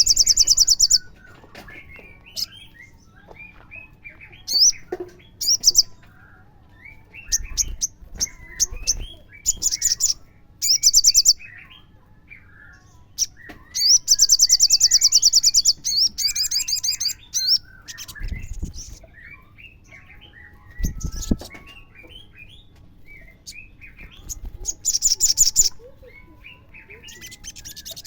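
Olive-backed sunbird singing: repeated bursts of fast, high, buzzy trills, the longest about three seconds near the middle, with softer twittering chirps between them.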